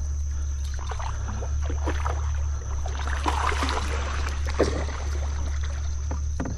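Water splashing and sloshing around a kayak, with scattered knocks and a noisy flurry of splashing about three seconds in, over a steady low rumble.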